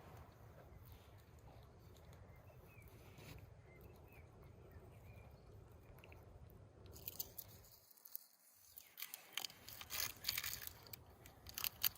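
Crisp crackling and crunching from about seven seconds in, as the charred skin of clay-oven-roasted vegetables is peeled off by hand, over a faint steady outdoor hush before it.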